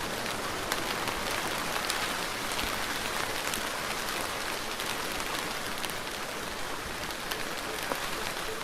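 Steady rain falling, with many separate drops ticking on a surface through the even hiss.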